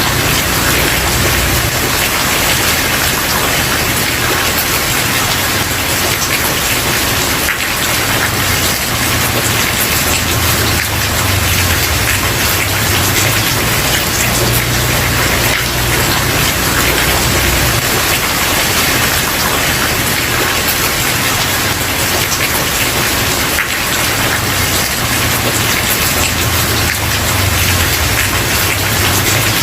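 Steady rain falling, with many fine drop ticks against a constant hiss and a low rumble that swells and eases every few seconds.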